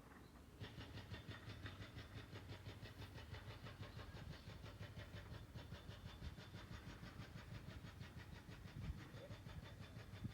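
An engine starts up abruptly about half a second in and keeps running with a fast, even ticking pulse over a low hum, faint in the distance.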